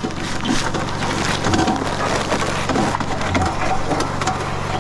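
Portable concrete mixer running, its motor giving a steady hum under the gritty rattle and crunch of concrete mix and gravel tumbling in the turning drum.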